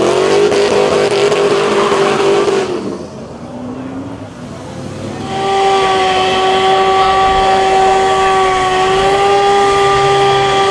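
Car engine revved up and held at steady high revs for nearly three seconds, then dropping off. About five seconds in it is revved again and held steady until it falls away at the end.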